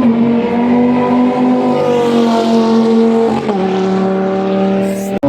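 A performance car's engine running hard at high, steady revs. Its pitch drops in one step about three and a half seconds in, from a gear change or the car passing.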